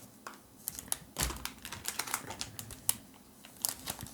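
A run of light, irregular clicks and taps from things being handled on a tabletop, with one heavier thump about a second in.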